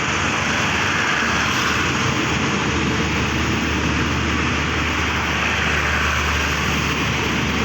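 Diesel locomotive engine running steadily, a loud even engine noise with a low hum underneath.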